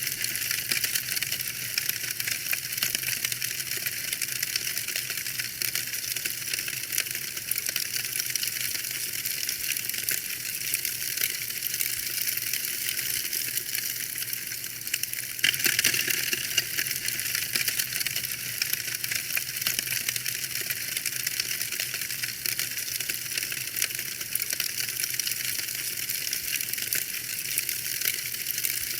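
Fire in a fireplace crackling: a dense, unbroken stream of small pops and snaps over a light hiss, with a louder flurry of pops about halfway through.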